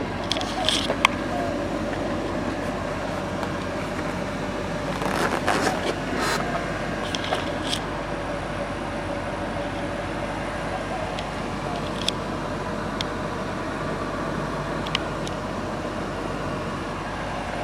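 1973 Chevrolet Corvette's V8 running steadily, with a few sharp clicks and rattles and a brief louder noisy patch about five seconds in.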